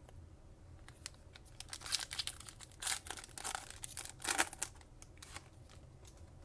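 A 2020 Panini Mosaic football card pack being torn open, its plastic wrapper crinkling and ripping in a run of irregular crackles, loudest in the middle.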